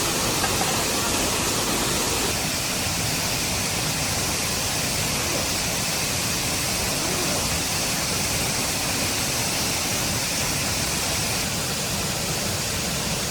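A steady, even rushing noise with no distinct events, heaviest in the high hiss range.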